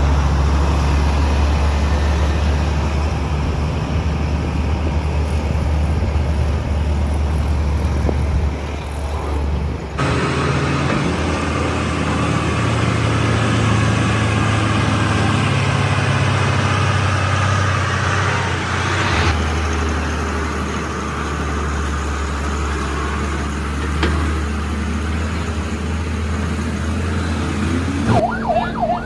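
Heavy trucks' engines running under load with road noise, a steady deep hum that changes abruptly twice at clip cuts. Near the end a wailing siren starts up.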